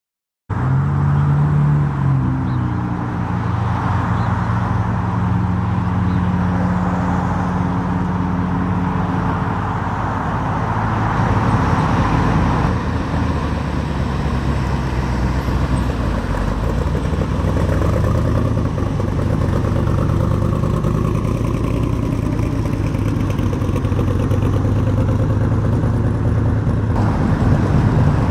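A car engine running nearby: a steady low note that shifts in pitch now and then.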